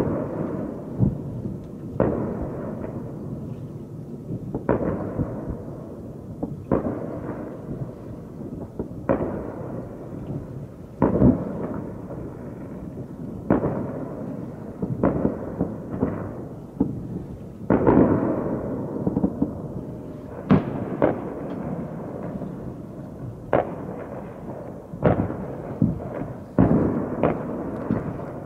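Distant aerial firework shells bursting, a sharp bang every second or two, each followed by a long rumbling echo.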